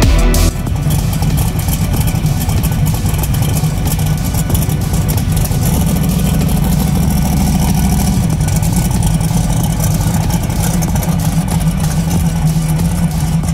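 The engine of a twin-turbo 1963 Chevy Nova SS drag car running loudly at low revs as the car pulls away slowly, with a slight rise in revs around the middle.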